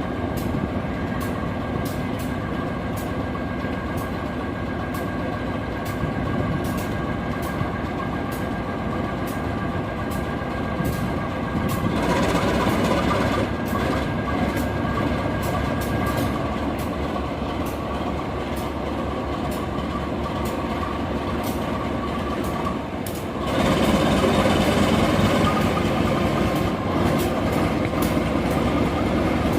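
Train passing on steel rails, its wheels clicking over rail joints again and again under a steady rumble and a thin whine. The sound grows louder about twelve seconds in and again near the last quarter.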